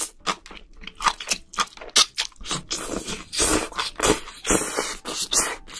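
Close-miked eating of spicy braised octopus: the strands are slurped into the mouth at the start, then chewed with many quick wet smacks and squelches.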